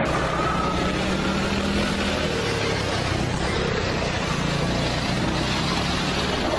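A vehicle engine running steadily, a low hum under a wide rushing noise.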